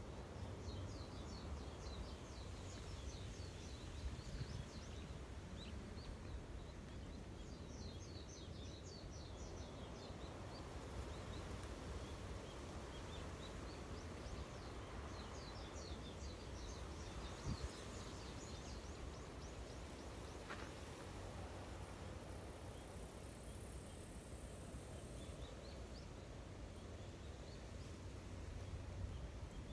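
Quiet outdoor ambience with a low steady rumble, over which a small bird sings in runs of rapid high chirps every few seconds.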